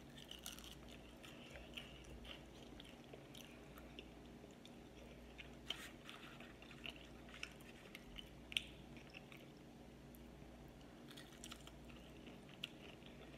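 A person chewing and biting into fried chicken wings in Asian sweet chili sauce, faint, with scattered soft mouth clicks and a couple of sharper ones about six and eight and a half seconds in.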